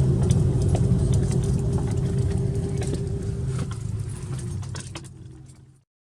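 Airbus A330-300 cabin noise at the gate: a steady low rumble with a faint hum, overlaid by many sharp clicks and metallic rattles. The sound fades and cuts off to silence near the end.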